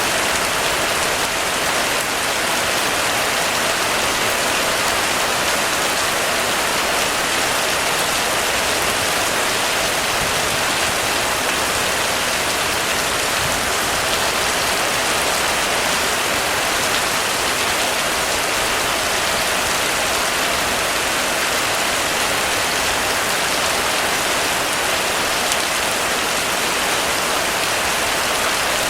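Steady rain falling on a roof: a dense, even patter with no let-up and no thunder.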